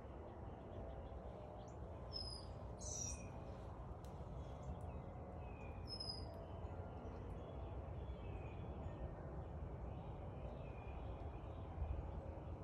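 Backyard songbirds chirping: a few sharp high chirps about two seconds in and again around six seconds, with fainter short calls repeating throughout, over a steady low background rumble.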